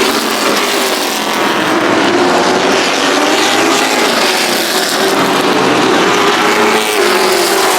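Street stock race cars running laps on the track, a loud dense engine noise whose pitch drifts slowly up and down as the cars circulate.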